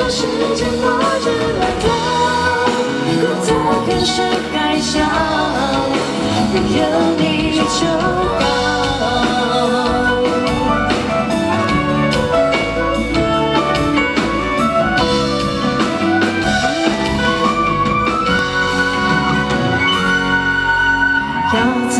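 Live pop song performed by a band, with a woman singing over drums and guitar.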